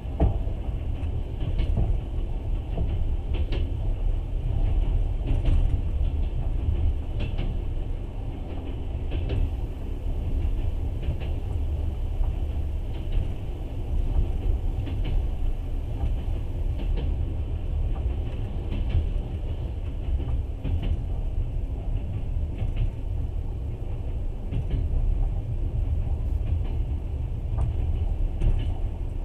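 Passenger train running along the track, heard from inside the carriage: a steady low rumble of wheels on rails, with light irregular clicks.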